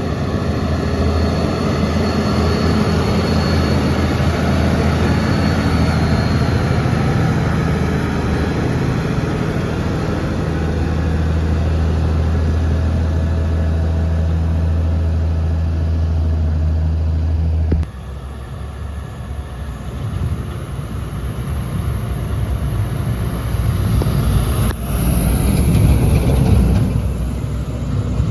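Heavy diesel truck engine pulling steadily under load uphill, a loud, even low drone. About two-thirds of the way in the sound cuts off suddenly to another vehicle approaching, growing louder near the end.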